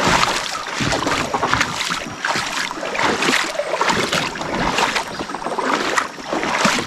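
Kayak paddle strokes splashing in shallow water, a run of irregular splashes and drips with the boat moving through the water.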